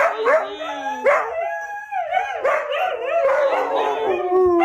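A dog howling in long, wavering cries that rise and fall in pitch.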